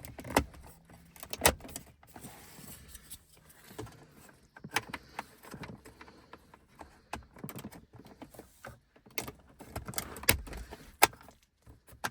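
Irregular clicks and taps of small plastic trim pieces and switch blanks being handled and pressed into a car's rear console, a few louder snaps among lighter rattles.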